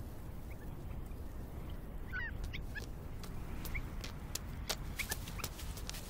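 Cream-colored coursers at the nest giving short, soft chirping calls, several of them, beginning about two seconds in, mixed with scattered sharp clicks over a low steady rumble.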